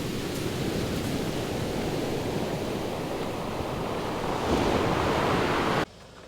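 Ocean surf washing onto a sandy beach, with wind on the microphone, a steady rushing that swells briefly and then cuts off abruptly near the end.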